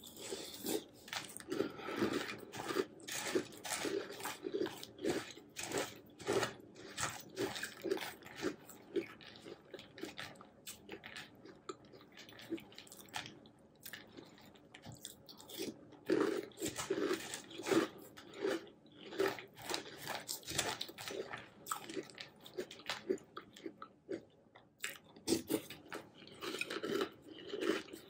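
Close-up chewing and crunching of hot cocoa cereal with marshmallows in milk: a dense, irregular crackle of crunches, mouthful after mouthful, with a few short pauses.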